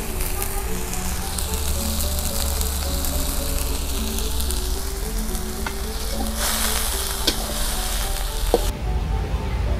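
Fried tofu sizzling in a steel wok while a metal spatula stirs it, with a few sharp clinks of the spatula against the pan. The sizzle grows louder about two-thirds of the way through and drops away suddenly near the end.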